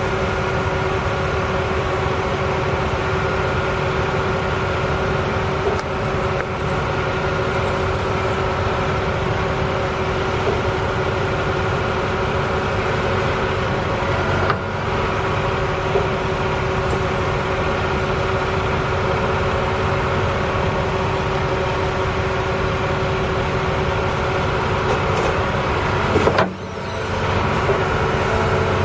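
John Deere 250G excavator's diesel engine running steadily, with a steady whine over the low engine rumble. The sound drops out briefly about twenty-six seconds in.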